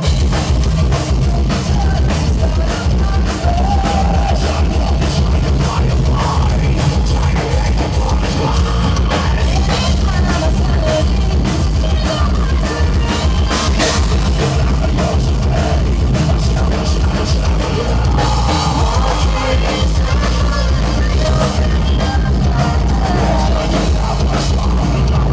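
Live heavy metal band playing loud, with a pounding drum kit driving the song and singing over it.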